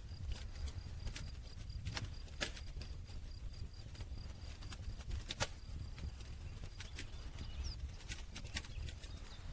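Campfire burning, the wood crackling with irregular sharp pops over a low steady rumble; the loudest pops come about two and a half and five and a half seconds in.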